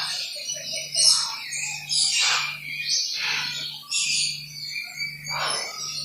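A flock of birds chirping and calling, many short overlapping calls one after another, with a low hum underneath.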